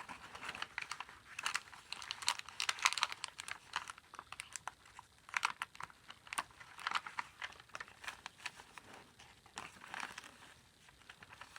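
Paper crinkling and rustling in irregular bursts of crackles as the pages and tucked paper items of a handmade junk journal are handled and turned, settling down near the end.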